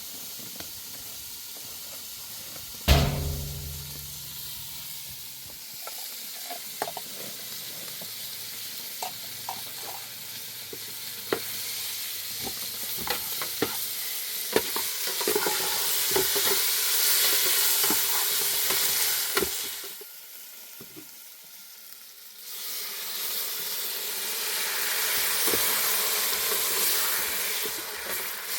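Food sizzling on a hot pan over a fire, with scattered crackles and a heavy thump about three seconds in. The sizzle cuts out for a couple of seconds near the end, then starts again.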